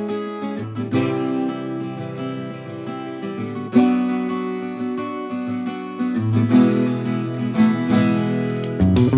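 Background music on acoustic guitar, strummed chords changing every second or so.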